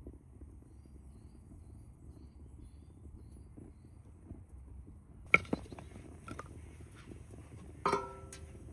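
Metal objects knocked together: a sharp clink a little past halfway, a few lighter clicks, then a louder clink near the end that rings on briefly, all over a low steady rumble.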